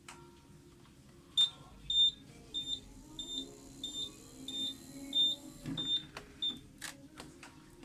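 Electronic beeper on a mobility scooter sounding a row of short, high, evenly spaced beeps, about three every two seconds, over a low steady hum. Sharp clicks come just before the beeps start and just after they stop.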